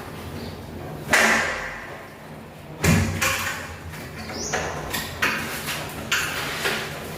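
Sliding window panel being moved along its track: scraping slides with a knock, the loudest about three seconds in.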